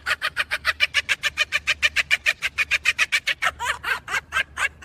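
A parrot cackling: a fast string of short, high-pitched, clucking calls, about eight a second, that slows and breaks into a few sweeping notes near the end.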